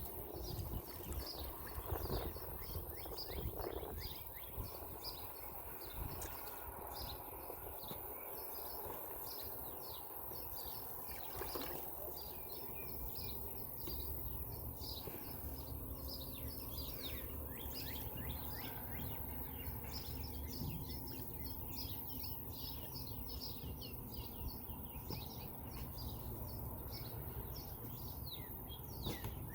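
Small birds chirping over and over, many short quick chirps through the whole stretch, over a steady low rumble.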